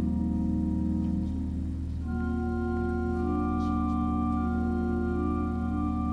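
Organ playing slow sustained chords over a deep held bass note, with a change of chord about two seconds in.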